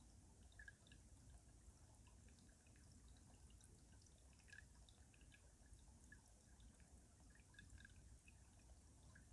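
Faint dripping and trickling of stream water running beneath ice, many small scattered drips.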